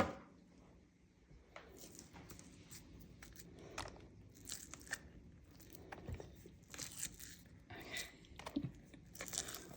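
A spoon scooping canned low-fat wet dog food onto dry kibble in a bowl: soft scrapes with scattered small clicks and crunches, and one sharper click at the very start.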